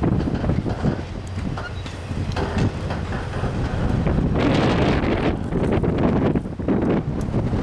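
Freight train cars rolling past with a dense rumble and scattered clicks from the wheels, with wind buffeting the microphone.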